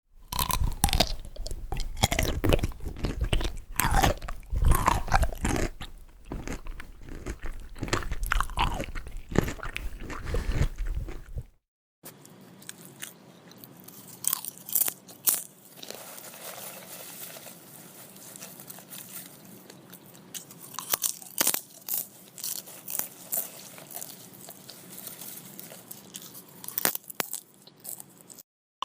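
Crunchy food being bitten and chewed close to the microphone, with crackling crunches. The chewing is loud and dense for about the first eleven seconds, then after a short break a second, quieter take follows with scattered sharp crunches.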